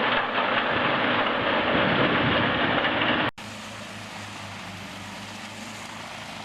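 Wood chipper running, with a loud, steady grinding noise. It cuts off abruptly about three seconds in, and a quieter machine engine takes over, running with a low, evenly pulsing hum.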